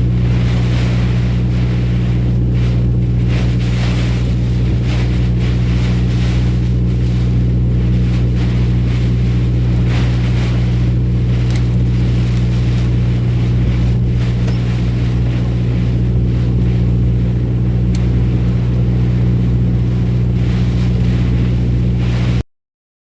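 Truck engine running at a steady speed, a constant low drone with road and wind noise over it, which cuts off abruptly near the end.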